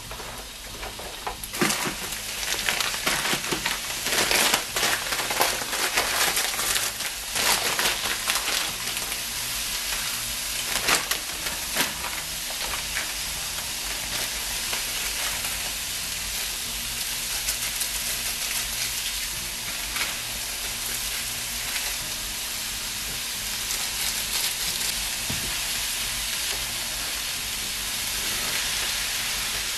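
Shredded carrots and cabbage sizzling in hot oil in a wok. There are sharp clicks and clatter in the first dozen seconds as the vegetables are tipped in and stirred with a spatula, then a steady sizzle.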